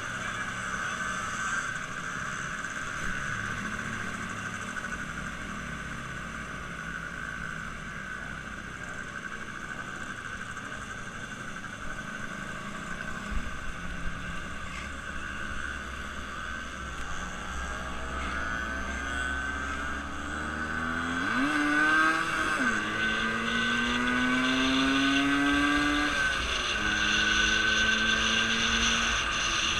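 A motor vehicle running steadily, its engine pitch climbing and shifting in the last third as it speeds up and gets louder.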